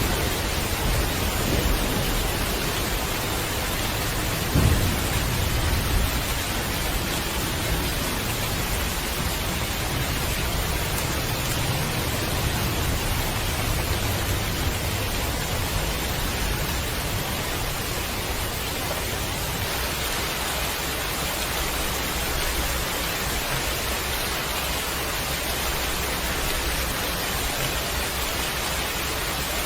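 Steady heavy rain with thunder rumbling low in the first half, loudest about five seconds in, then fading out to rain alone.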